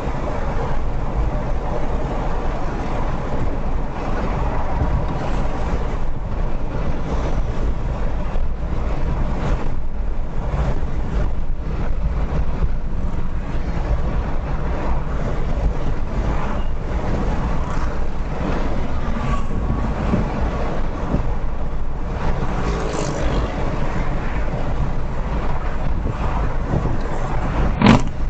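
Car driving on a highway, heard through a dashcam: a steady rumble of road and wind noise, with one short, sharp knock near the end.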